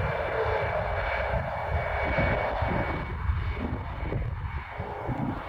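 Jet airliner engines running: a steady rush of noise over a low rumble, with a thin, steady high whine.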